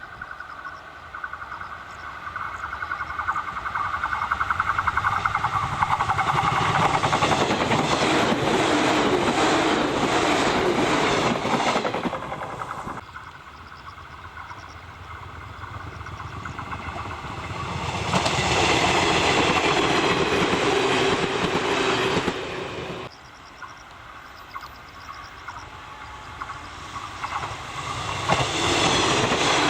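Japanese AC/DC electric trains passing one after another, their wheels clacking rhythmically over rail joints. The first builds up and then cuts off suddenly about 13 seconds in. A second is loud for a few seconds and ends abruptly, and a third is coming up near the end.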